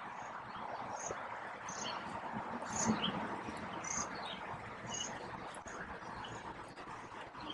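A small bird repeating a short, high chirp about once a second, over a steady outdoor background hiss.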